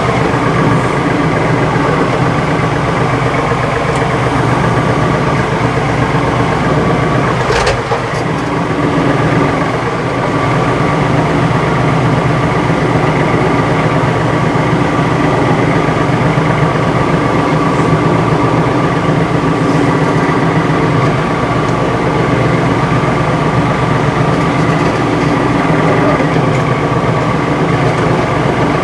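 Compact tractor's diesel engine running steadily, with a single short knock about eight seconds in.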